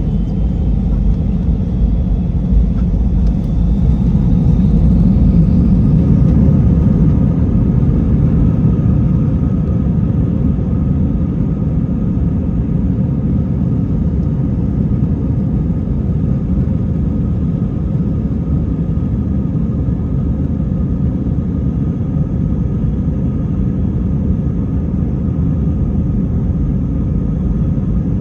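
Airliner engines heard from inside the cabin at takeoff: a whine rising in pitch over the first few seconds as the engines spool up, then a loud, steady rumble.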